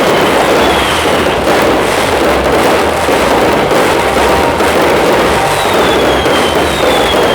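Fireworks show: a dense, continuous barrage of bangs and crackle. Short falling whistles come about a second in and again near the end.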